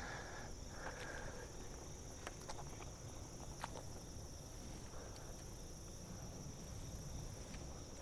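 Steady high-pitched chorus of insects in late-summer woods, with a few faint sharp clicks about two and a half seconds in and again near four seconds.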